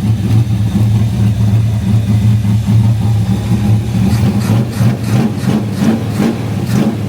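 Car engine idling steadily with a low, even drone. In the second half a quick series of sharp clicks or knocks sounds over it.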